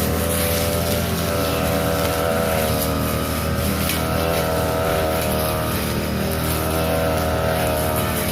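Small petrol engine of a grass-cutting machine running steadily at a constant speed while cutting overgrown grass.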